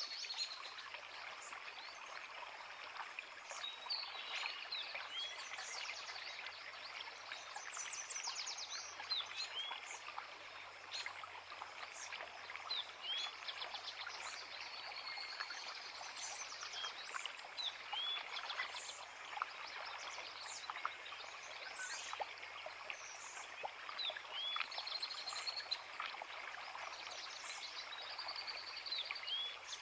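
Creek water running steadily, with several small songbirds singing over it in short chirps, quick upward notes and trills.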